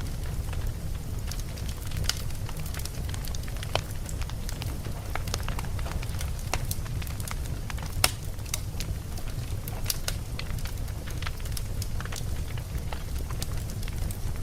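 Campfire burning, with wood crackling and popping at irregular moments over a steady low rumble. The sharpest pop comes about eight seconds in.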